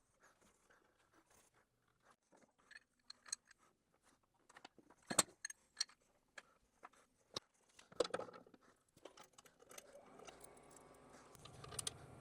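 Scattered clicks and clunks of hand handling, loudest about halfway through. Then, from about ten seconds in, the motor of a 1 HP variable-speed bench grinder sets in as a steady low hum that grows louder near the end.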